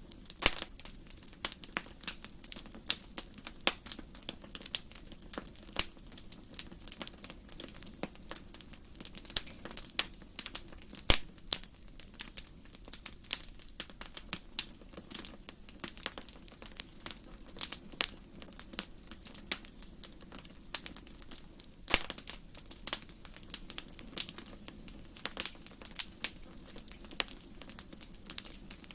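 Wood fire burning in a fireplace: dense, irregular crackling and popping over a low steady hiss, with a few sharper, louder pops.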